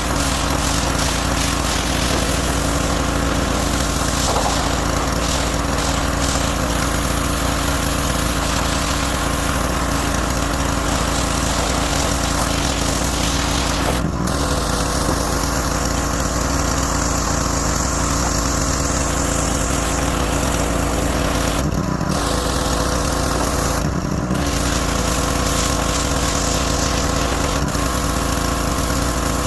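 A gas-powered pressure washer's small engine runs steadily under the hiss of the spray. The hiss breaks off briefly three times, once near the middle and twice later on, as the spray stops and starts again.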